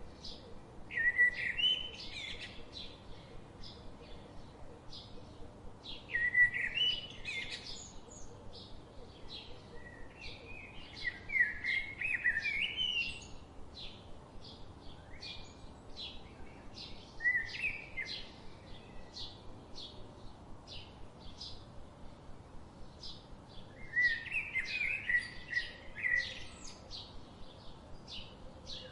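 Birds singing: a warbling song phrase every few seconds over a steady string of short, high chirps about twice a second.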